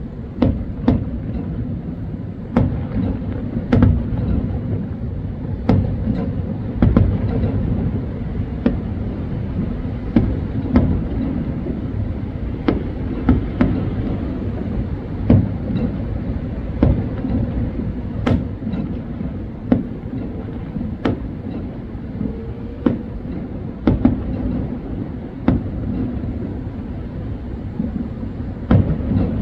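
Fireworks exploding at a distance: irregular bangs and pops every second or two over a steady low rumble.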